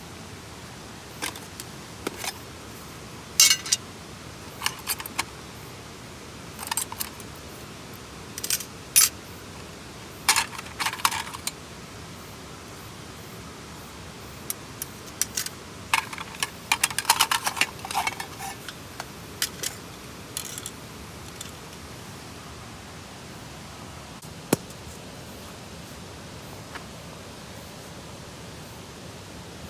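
Light metallic clinks and rattles of small metal camping gear being handled, in scattered clusters with a busy stretch a little past the middle and a single click near the end, over a steady background hiss.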